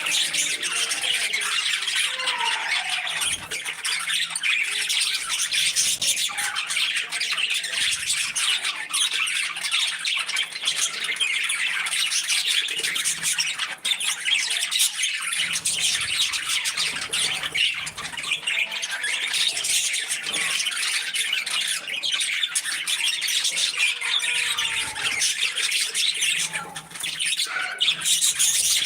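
A flock of pet budgerigars chattering, chirping and squawking continuously, many birds calling over one another in a dense, unbroken high-pitched warble.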